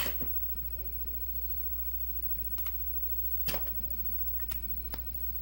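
A few small sharp clicks and taps from handling the disassembled padlock and small tools, the loudest right at the start and another about three and a half seconds in, over a steady low hum.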